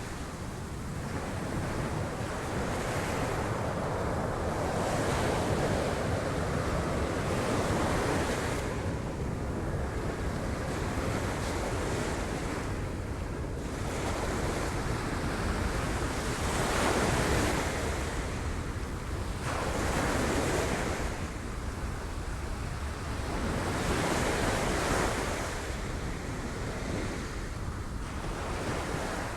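Sea waves breaking against rocks, surging and easing in swells every few seconds, with wind buffeting the microphone.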